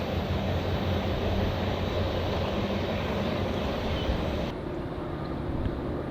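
Steady rumble of a passing train. The higher hiss drops away abruptly about four and a half seconds in while the low rumble carries on.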